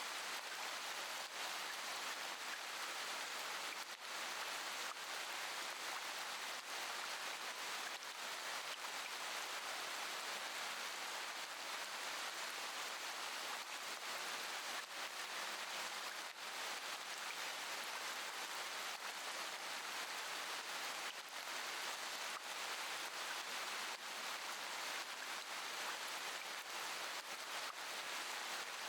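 Steady rain: a dense, even hiss of rainfall with scattered individual drop taps.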